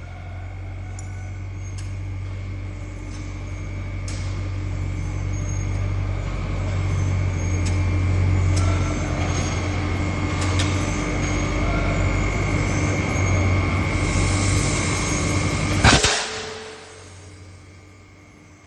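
Pneumatic degating hammer machine running with a steady low hum and a high steady tone, growing louder, with scattered faint clicks. About sixteen seconds in a sharp, loud burst of noise cuts in, and then the machine sound drops away to a quieter background.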